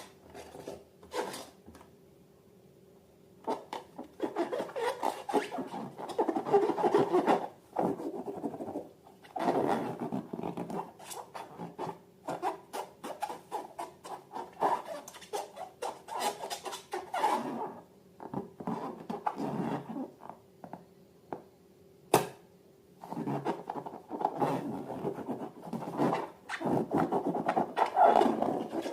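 Slime and rubber balloons being handled by hand, giving bursts of rubbing, squishing and scraping sounds with short pauses between them, over a faint steady hum. There is one sharp click about two-thirds of the way through.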